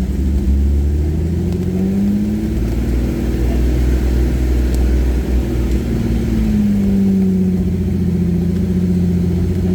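Jeep engine working at low speed on a steep trail, heard from inside the cab, its pitch slowly dipping and rising a few times as the throttle changes.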